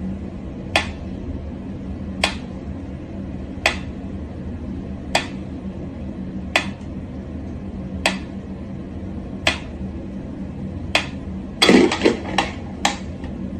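Sharp, regular knocks or clinks about every second and a half over a steady low hum, then a quick flurry of louder clattering knocks near the end.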